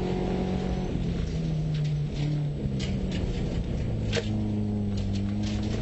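Subaru rally car's engine driving hard through a stage, heard from inside the car. The engine pitch steps up and down several times with gear changes and throttle. Scattered sharp ticks and knocks sound over it.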